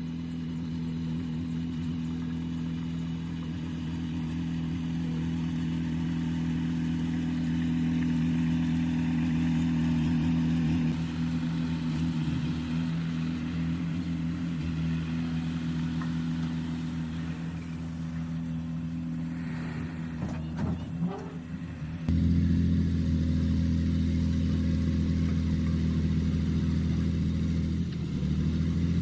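Heavy diesel engine of construction machinery running steadily, with a few brief knocks a little past two-thirds of the way in. About three-quarters of the way through it changes abruptly to a louder, lower drone.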